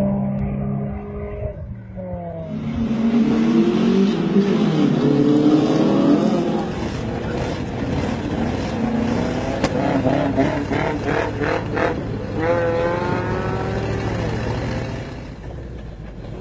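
Big-block Chevy 454 V8 in a Toyota pickup: revs fall, then the engine opens up hard about two and a half seconds in, its pitch climbing through the gears with a drop and fresh climb at a shift, before easing off near the end.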